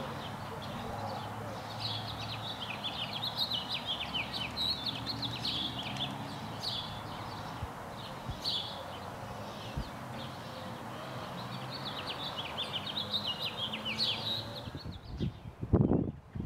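Songbirds chirping and singing busily over a steady low outdoor background. Near the end the birdsong stops and loud gusts of wind buffet the microphone.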